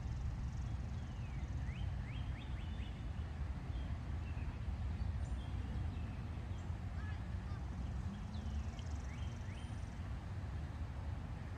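Faint bird calls, quick downward-sweeping chirps in small clusters, about two seconds in and again near the end, over a steady low rumble.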